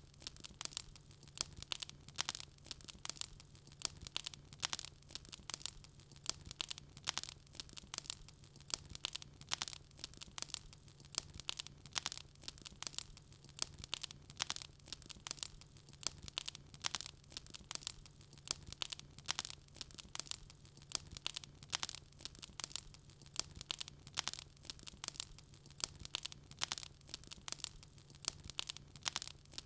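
Wood fire burning with dense, irregular crackling and sharp pops, over a faint steady low hum.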